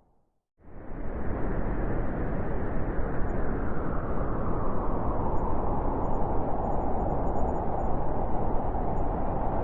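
Blizzard wind: a steady, even rush of storm noise. It starts abruptly after about half a second of silence at the start, where the track restarts.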